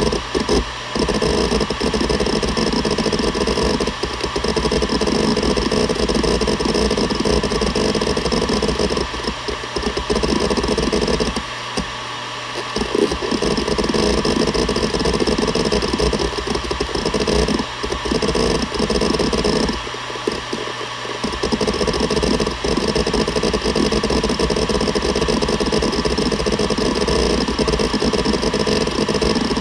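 Seagate Barracuda ES.2 ST31000340NS hard drive seeking continuously: a dense, rapid clatter from the head actuator over the steady hum of the 7200 rpm spindle. The seeking stops for a moment three times, leaving only the spindle hum.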